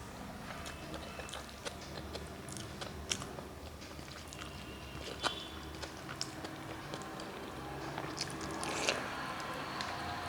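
A person eating at close range: chewing, with scattered small mouth clicks and crunches, a little denser and louder near the end.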